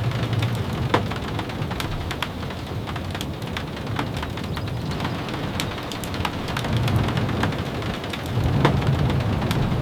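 Steady rain with many scattered sharp ticks of drops tapping, and a low rumble under it that swells near the end.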